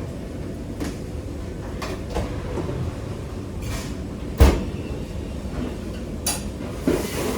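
Kitchen work sounds: scattered knocks and clatters of pots and utensils over a steady low background rumble, with one heavy thump about four and a half seconds in.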